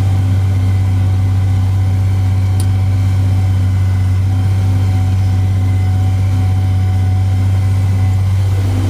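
Tractor engine running at a steady speed while pulling a hay mower-conditioner through the field, a constant low drone.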